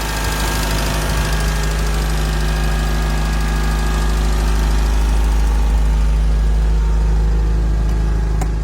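A car engine running steadily at idle with a strong low rumble, cutting off near the end.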